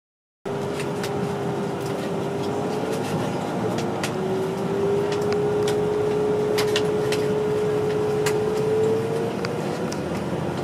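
A moving train heard from inside the passenger carriage, starting suddenly: a steady rumble with a humming drive tone that rises slightly in pitch, and scattered sharp clicks and ticks.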